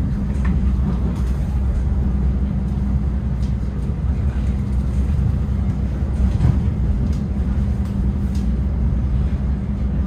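Steady low rumble inside a passenger train carriage as the train runs along the rails, with a few faint clicks.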